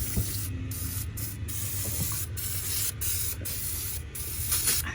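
Gunk engine degreaser spraying onto an engine with a steady high hiss, let off briefly several times in short bursts.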